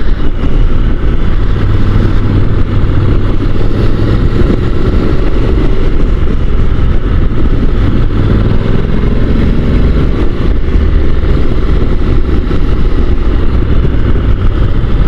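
Honda NC750 DCT motorcycle's parallel-twin engine running steadily under way, with wind and road rush.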